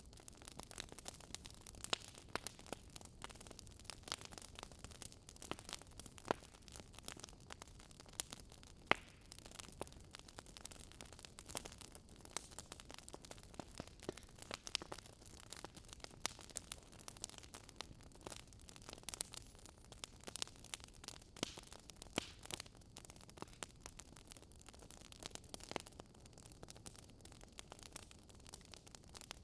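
Wood fire crackling: faint, irregular sharp snaps and pops, several a second, over a low steady hiss.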